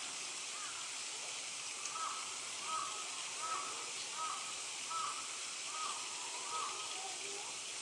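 A bird calling a steady series of about seven short, arched notes, each a little under a second apart, over a steady outdoor hiss.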